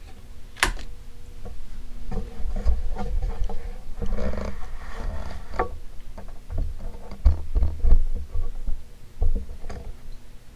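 Patton 56-inch industrial ceiling fan running: a steady motor hum under an irregular low rumble of moving air on the microphone, with a sharp click about half a second in and scattered lighter clicks and knocks.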